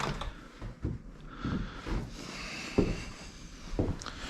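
Scattered light knocks and clicks of motorcycle parts and wiring being handled during disassembly, with a sharp click at the start.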